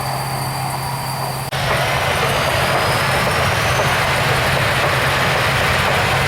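Aircraft engine noise. About one and a half seconds in, a hard cut changes a steady, humming engine sound to a louder, even rushing noise with a faint rising whine.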